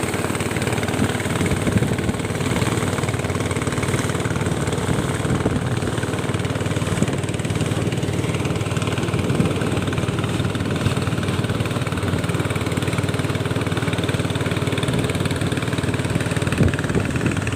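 A small engine running steadily at an even speed, with a low throb.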